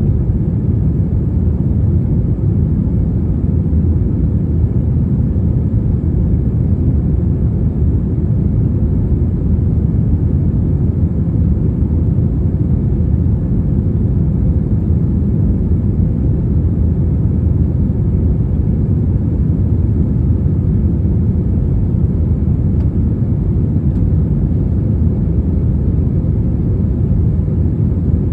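Steady low rumble of a jet airliner's engines and rushing air, even and unchanging throughout.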